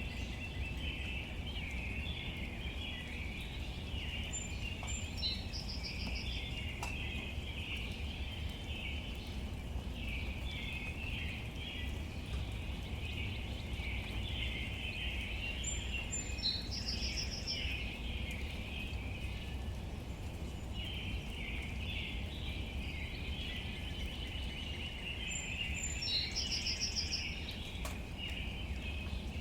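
Outdoor nature ambience: a songbird repeats the same short song three times, about ten seconds apart, each a high note followed by a quick trill, over a continuous chorus of chirping birds or insects and a steady low rumble.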